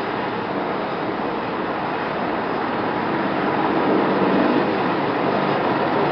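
BK 117 helicopter's twin turbine engines and rotor running with a steady, even noise and a faint hum, growing slightly louder about four seconds in.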